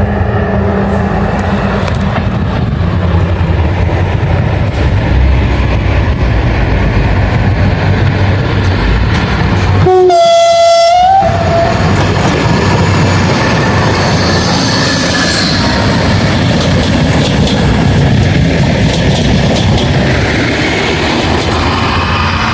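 Train running past with a steady low rumble and wheel noise on the rails. About ten seconds in, the locomotive sounds its horn once for about a second: a brief lower note, then a higher held note.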